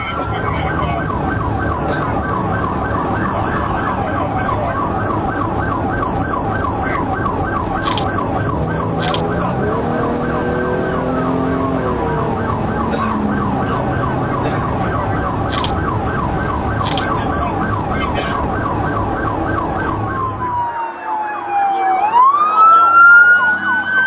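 Police car siren sounding in a fast yelp, about three sweeps a second, over steady engine and road rumble. About 21 seconds in it switches to a slow wail that falls and then rises again.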